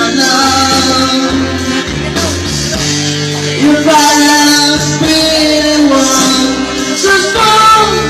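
A man singing long, held notes that waver slightly, over instrumental backing music with a steady bass line.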